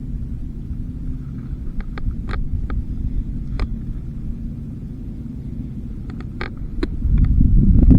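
Low rumbling handling noise on a body-worn action camera, with scattered sharp clicks and ticks as the angler handles his fishing tackle and the fish he has just caught. The rumble swells louder near the end.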